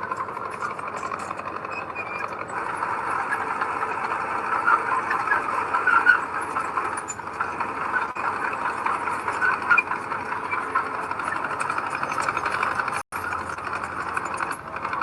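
Heavy diesel earthmoving machinery working: a steady engine with a dense, continuous rattle. The sound cuts out for an instant near the end.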